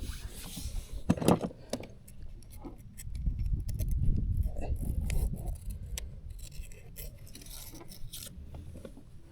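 Small clicks and scrapes of hands and fishing tackle while a small snook is unhooked, with a low rumble swelling about three seconds in.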